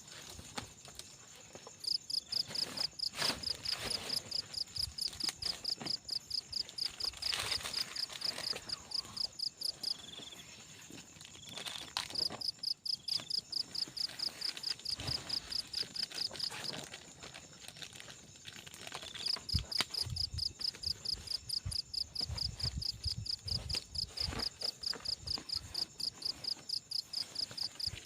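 Night insects calling: a high chirp repeating about four times a second in long runs with short breaks, over a steady high-pitched insect drone.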